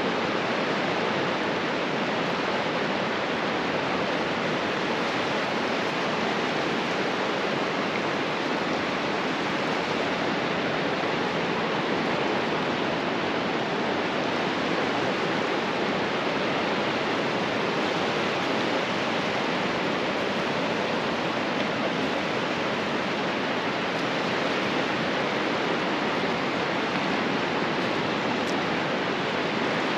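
Steady, unbroken rush of ocean surf breaking along a beach, with no separate wave surges standing out.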